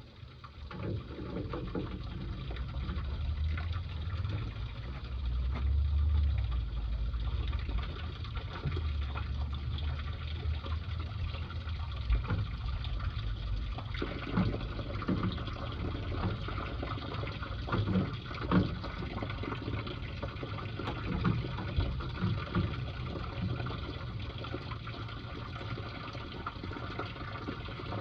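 Water running and splashing from a leaking copper hot-water line, with scattered knocks.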